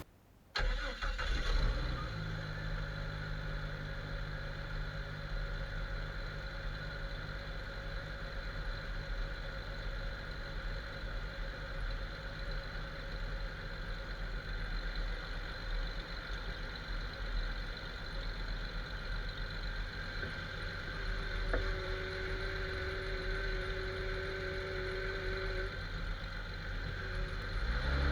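Jeep XJ engine running steadily at low revs, heard from the vehicle, with the revs starting to rise near the end. A faint whine joins for a few seconds about two-thirds of the way through.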